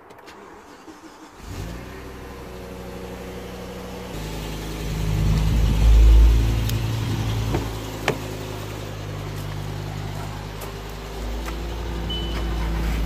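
Car engines starting and running: one catches about a second and a half in and settles into a steady idle, with a louder surge around six seconds in and a sharp click near eight seconds. Short high beeps repeat near the end.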